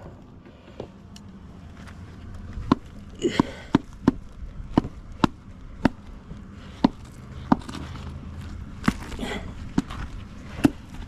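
A dozen or so sharp, irregular knocks and clicks of hard objects striking wooden beehive frames and boxes as a dead-out hive is worked through, starting a few seconds in.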